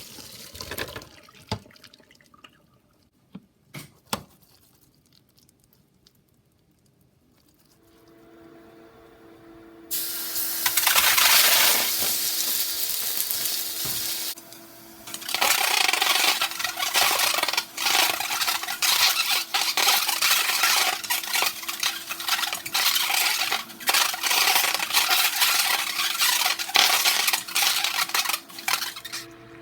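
Water running from a kitchen tap into a sink, with dishes and utensils knocking, starting about ten seconds in and pausing briefly midway. A steady hum begins shortly before it.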